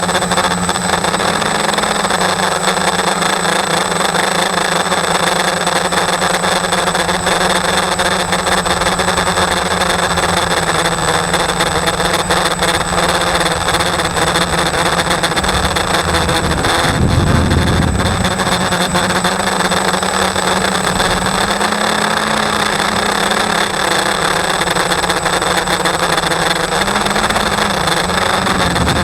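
Electric motor of a 550-size RC model spinning a propeller with a broken blade, running at a steady speed with a constant hum and a thin high whine. About seventeen seconds in there is a brief low rumble.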